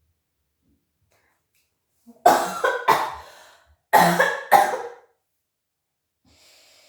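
A woman coughing: two pairs of short, loud coughs, the second pair about a second after the first. The coughing is set off by the strong smell of the hair bleach she is using.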